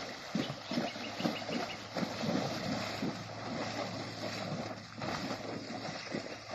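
A horse moving at a steady gait, its hoofbeats coming as regular thuds under wind noise on the microphone, with a few faint ticks about a second in.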